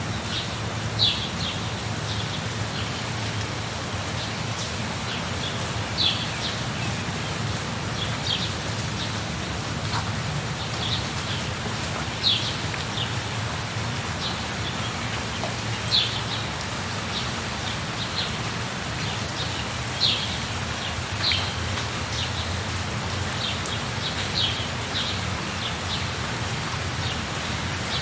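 Steady rain falling, with a bird giving short, high, downward chirps every few seconds over it.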